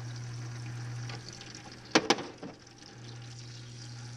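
Compressed-air blowgun hissing as it blows old grease out of a grease fitting. Two sharp, loud blasts come about two seconds in.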